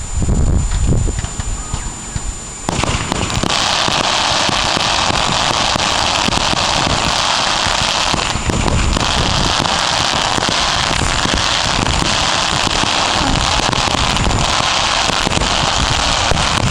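Fireworks crackling: after a low rumble, a dense, steady crackle sets in suddenly about three seconds in and keeps going without a break.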